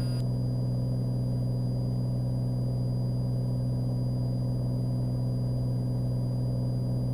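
Cessna Skylane's piston engine and propeller droning steadily in flight, a constant low hum with no change in pitch.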